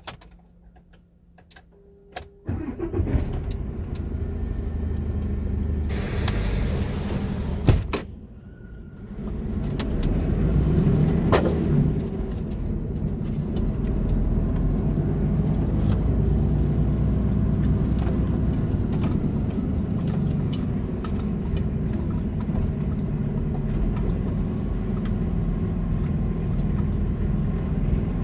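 Mercedes Actros truck's diesel engine starting about two seconds in, then running steadily. A burst of hiss ending in a sharp click comes a few seconds after the start, and the engine sound briefly drops and rises again before it settles.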